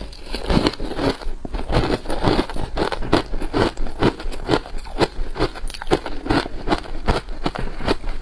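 Freezer frost being bitten and chewed close to the microphone: a quick run of crisp crunches, about three or four a second.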